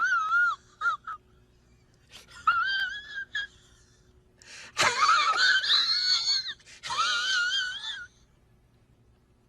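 Comedy sound effect of a high-pitched wheezing squeal. It comes in several short bursts with a wobbling, wavering pitch, then stops about two-thirds of the way through.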